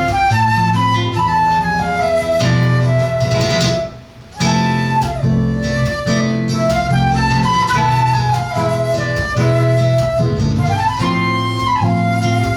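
Flute and seven-string guitar duo playing live. The flute carries the melody over the guitar's bass lines and chords, with a short break about four seconds in.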